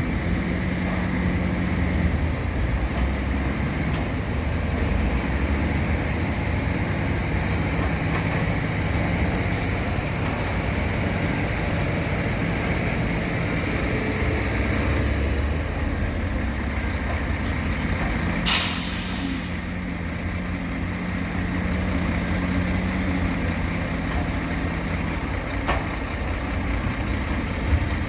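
Heavy diesel machinery, an excavator and dump trucks, running steadily, the engine note rising and falling as they work. There is one short hiss about eighteen seconds in.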